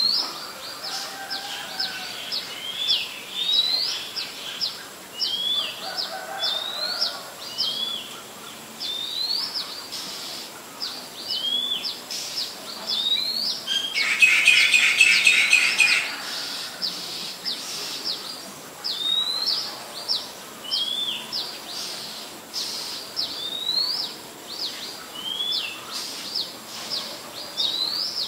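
Small birds calling: a steady run of short, quick upward-sweeping chirps, one every second or so, with a rapid chattering rattle a little past halfway that is the loudest part.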